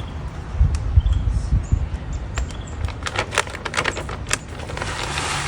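Bird feeder and seed being handled: a few low bumps, then a run of sharp clicks and rattles. Near the end a sunflower-and-safflower seed blend starts pouring into the feeder with a steady rushing hiss.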